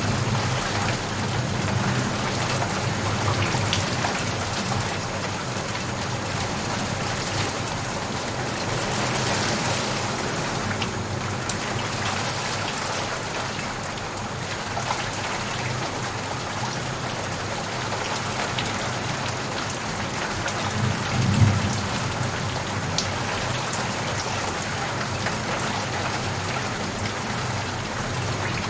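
Steady rain falling on a surface, an even hiss with scattered drop ticks. A brief low rumble of thunder swells about three-quarters of the way through.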